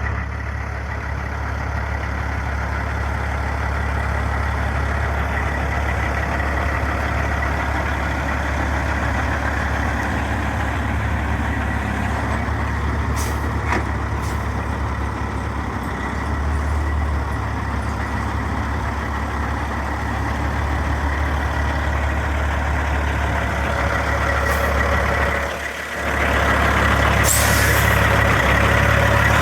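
2005 Peterbilt 379 semi truck's diesel engine idling steadily, with a brief dip about 26 seconds in.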